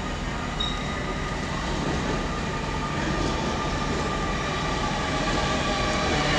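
Train at a station platform, a steady low rumble with several steady whining tones above it, growing gradually louder.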